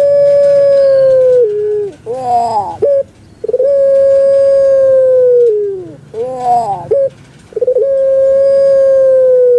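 Puter pelung (Streptopelia risoria, a long-voiced dove kept in Java for its call) cooing: long, steady, ringing notes of about two seconds that drop in pitch at the end, each followed by a short, rough, gurgling phrase, repeated about every four seconds.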